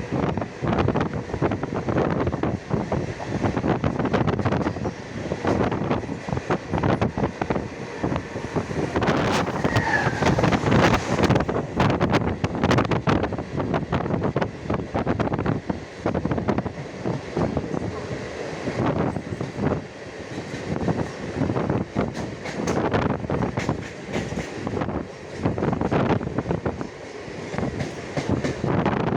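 Mumbai suburban local train running, with a continuous clatter of wheels and carriages and a brief high squeal about ten seconds in.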